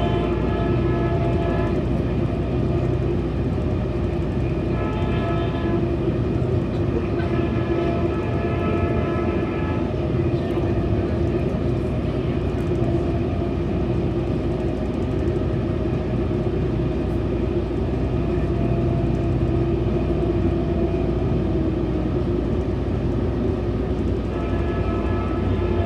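Metrolink commuter train running along the track with a steady rumble, heard from aboard. Its horn sounds in several blasts: one at the start, one about five seconds in, a longer one about eight seconds in, and another starting near the end.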